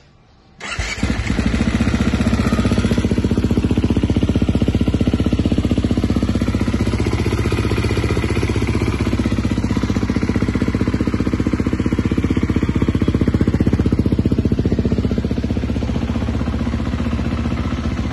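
2021 KTM 350 XCF-W's single-cylinder four-stroke engine starting up about half a second in, then idling steadily with an even pulsing beat through a full titanium FMF exhaust.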